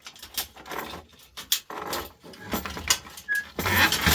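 Irregular clicks, knocks and clinks of tools and metal and plastic parts as a lamp fixture is pried apart by hand, with a brief squeak a little over three seconds in and a busier clatter near the end.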